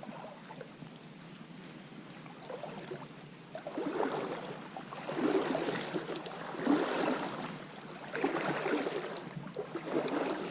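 Creek water sloshing and splashing around legs as someone wades, a few faint seconds and then a swell about every second and a half, one per stride.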